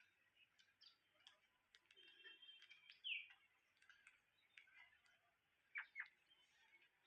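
Parrots giving scattered faint chirps and calls, with thin clicks among them; the loudest are a short call about three seconds in and two quick downward calls near six seconds.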